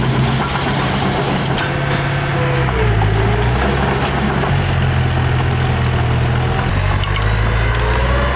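Small bulldozer's diesel engine running steadily. Its pitch shifts up and down in steps about three, four and a half and seven seconds in, with a faint sliding whine above the engine.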